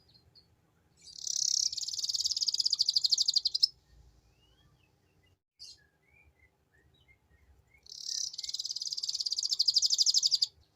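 Domestic canary singing two long, very fast trills in the 'ngeriwik' style, each lasting about two and a half seconds, with a few soft short chirps in the pause between them.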